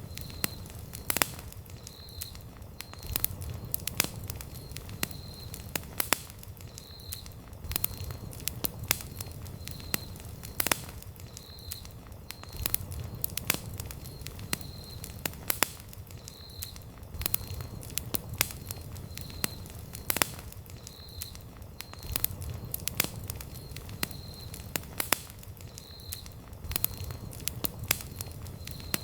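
Wood campfire burning, with frequent sharp crackles and pops over a low rumble of the flames. A faint high tone pulses about once a second alongside.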